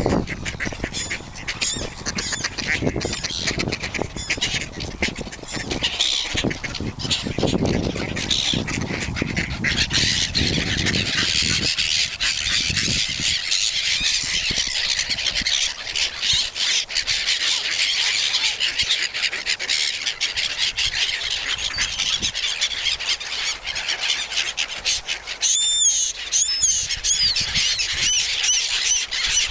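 A hungry flock of swans and ducks calling and squabbling, with dense chattering and clicking calls throughout. A few high squealing calls stand out near the end.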